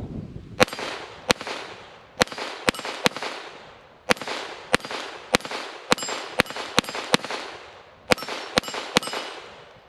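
Taurus TX22 .22 LR pistol firing a full magazine: about fifteen sharp cracks in quick strings with brief pauses, each trailing off in a fading echo.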